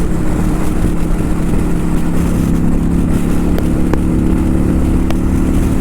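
Kawasaki Vulcan 900 Custom's V-twin engine running steadily at cruising speed while the bike is ridden, its note holding one even pitch over a heavy low rumble.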